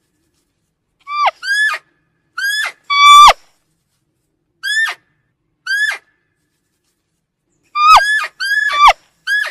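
A series of about ten short, high-pitched animal calls. Each rises briefly and then drops off sharply, some single and some in quick runs of two or three, with dead silence between them.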